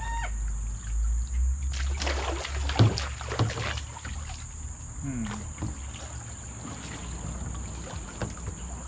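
Kayak paddle strokes splashing and dripping in shallow water, with a cluster of sharp knocks and splashes about two to four seconds in.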